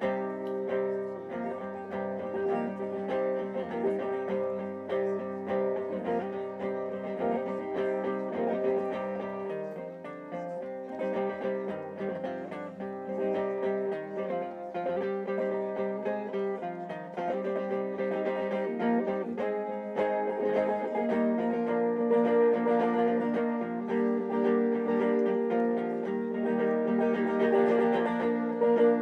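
A live band playing the instrumental opening of a song on plucked string instruments such as guitar, with many quick picked notes over held chords. The playing grows fuller and a little louder about two-thirds of the way through.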